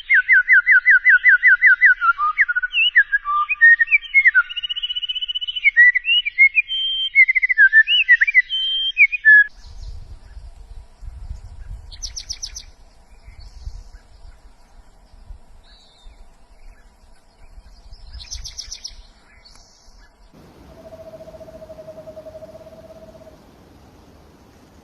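A songbird singing a loud, varied song of rapid trills and clear whistled notes for about nine seconds. After that come two short, high, buzzy trills several seconds apart, and a steady low note held for a couple of seconds near the end.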